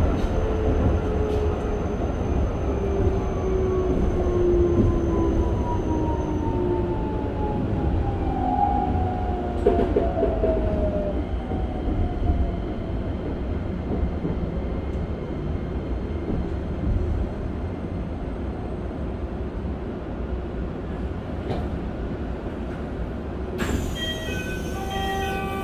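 Keikyu 1000 series train with Toyo IGBT-VVVF control, heard from inside the car: a steady low rumble of wheels on rail, with the traction motor whine falling in pitch over the first half as the train slows. Near the end, a brief hiss is followed by a cluster of steady high tones.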